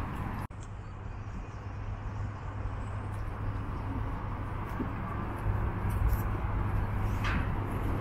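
Outdoor street ambience dominated by a steady low rumble of passing traffic, with a brief dropout about half a second in.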